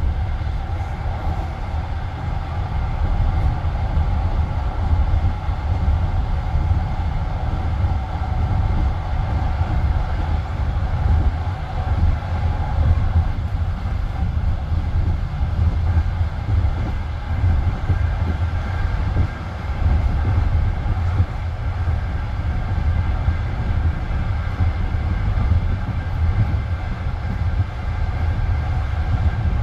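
Passenger train carriage running at speed, a steady deep rumble of its wheels on the rails heard from inside the coach.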